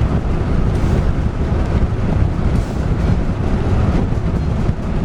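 Strong wind buffeting the microphone: a loud, steady, rumbling noise that flickers unevenly without letting up.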